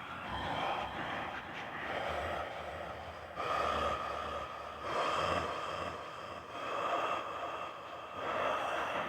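A person imitating wolf howls, with reverb and echo added. Several long howls overlap and start one after another, like a pack of werewolves howling together.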